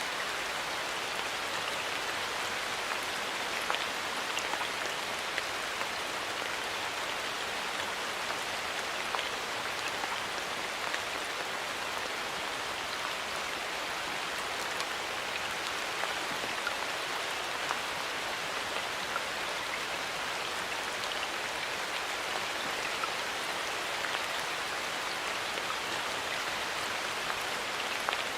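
Steady rain falling in a forest, a continuous patter with many small individual drops hitting leaves and other surfaces.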